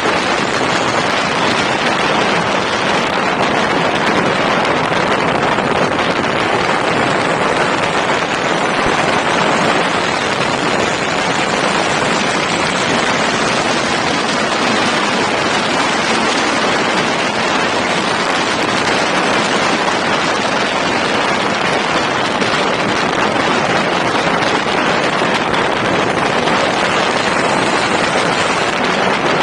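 Wind rushing across the microphone: a loud, steady hiss that never lets up.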